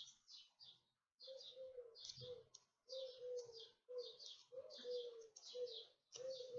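Faint bird calls: a run of short calls repeated at an even pace, about one every three-quarters of a second, each a slightly falling note with higher chirping over it.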